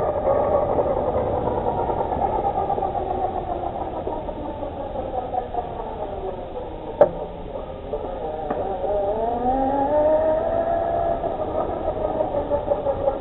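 Tamiya radio-controlled Unimog truck's electric motor and gearbox whining as it drives. The pitch falls as it slows and climbs again as it speeds up, with a sharp knock about seven seconds in and a lighter one soon after.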